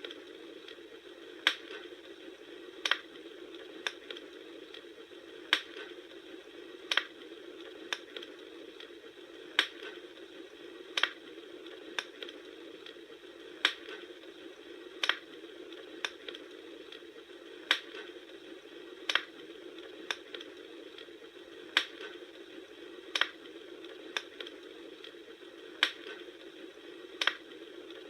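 Campfire crackling: a steady hiss with sharp pops about every second and a half, falling into an even repeating pattern.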